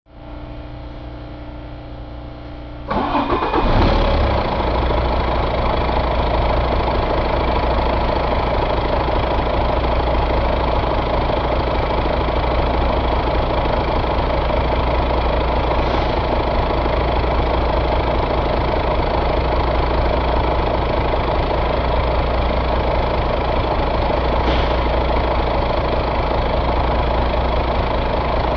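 Volvo D13 inline-six diesel engine cranking on its starter, catching about three seconds in with a short rise in revs, then settling into a steady idle.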